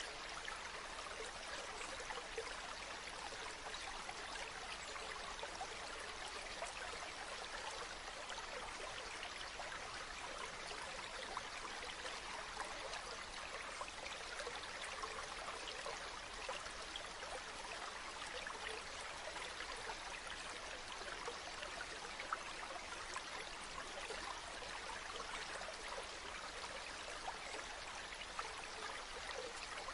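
Water running from a natural spring, flowing steadily with a fine patter of small splashes.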